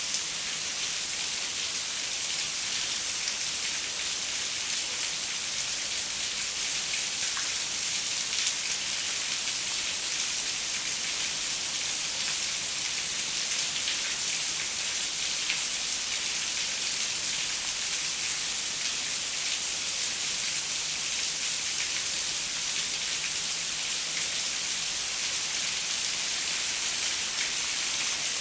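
Steady rain falling on a window, an even hiss scattered with fine drop ticks.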